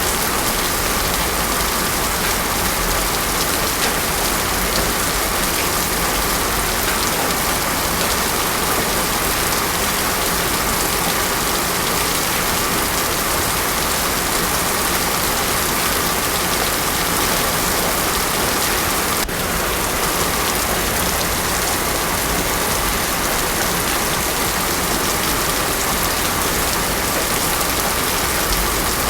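Heavy rain falling steadily on a road surface, a dense, even hiss with no thunder.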